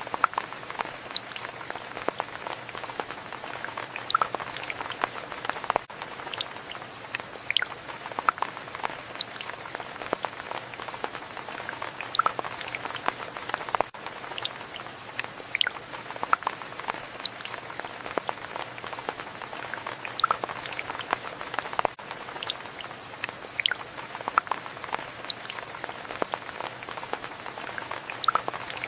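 Steady rain with many sharp, irregular drops landing close by. A short stretch of recording repeats about every eight seconds.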